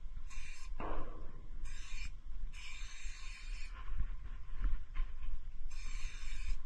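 Marker tip scratching across a surface in four short strokes, the longest about a second, over the steady low rumble of a moving train.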